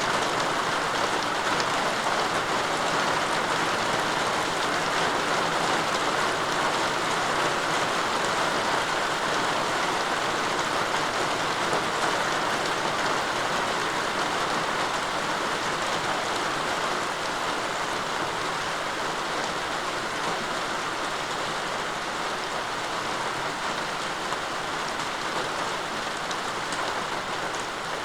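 Steady rain falling on surfaces around a house, an even, dense hiss of many drops with no single drop standing out.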